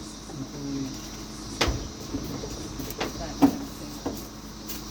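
A handful of sharp knocks and clunks, about five spread over a few seconds, with a faint voice in the background near the start.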